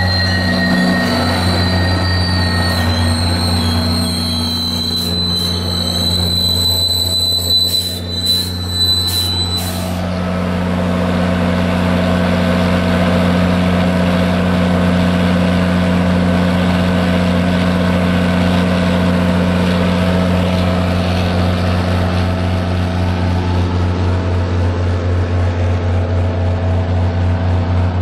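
Diesel locomotive of a commuter train passing close, its engine running with a steady low hum. High-pitched wheel squeal rings over it for the first ten seconds or so, with a few sharp squeaks near the end of that stretch. Then the double-deck coaches rumble by, with an even rhythmic clatter over the last few seconds.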